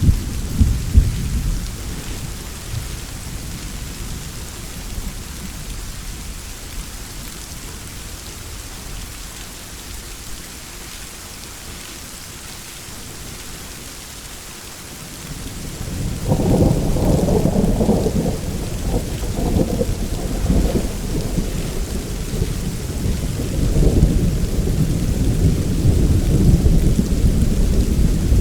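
Steady rain during a thunderstorm. A roll of thunder dies away in the first couple of seconds. Another long rumble of thunder builds about halfway through and grows louder again near the end.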